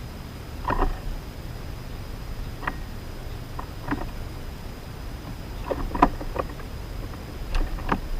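Irregular light knocks and clatter on a backyard bird feeder, a handful spread over several seconds with a quick cluster near the middle. A steady low outdoor rumble runs underneath.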